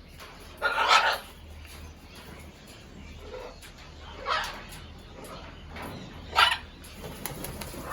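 Three short, loud animal calls, a few seconds apart.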